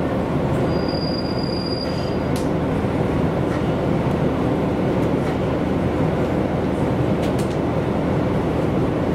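Diesel railcar running along the line, heard from inside the car: a steady rumble of engine and wheels on the rails, with a brief thin high tone about a second in.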